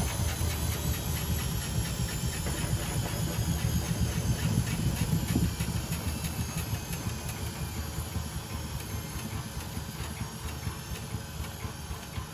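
Privileg Sensation 952 S top-loading washing machine running with a steady low rumble and hiss, which dies away gradually over the second half.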